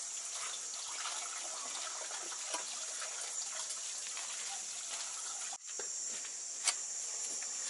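Steady running water with a constant high hiss, a few faint clicks scattered through it, and a brief break about five and a half seconds in.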